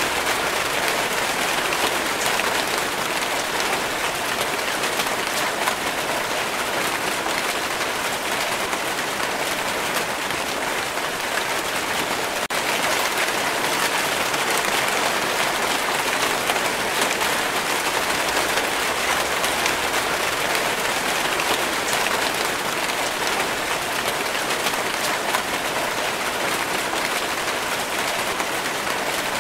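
Steady rain falling, an even hiss of many drops with fine ticks of single drops through it, unchanging throughout.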